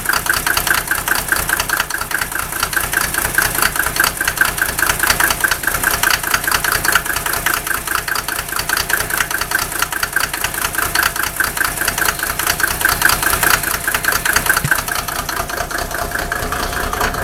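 Mercedes OM603 inline-six diesel idling cold, with a steady, even-paced diesel knock and a rough, uneven idle.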